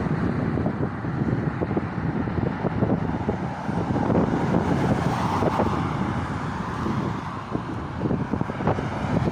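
Strong sandstorm wind buffeting the microphone: a loud, irregular rumble that swells and crackles in gusts.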